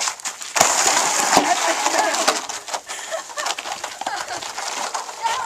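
Sled scraping and crunching down an icy, crusted snow slope, loudest from about half a second in to about two and a half seconds, then lighter crackling. A short high vocal sound near the end.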